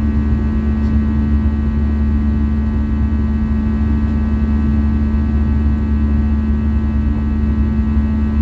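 Airbus A320's CFM56-5B engines droning steadily as heard inside the passenger cabin: a deep, unbroken rumble with a steady hum and several held tones over it.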